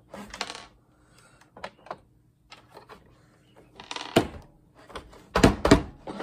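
Clicks, rattles and knocks of an old TV's plastic casing and its screws being handled during disassembly, with a cluster of the loudest knocks near the end.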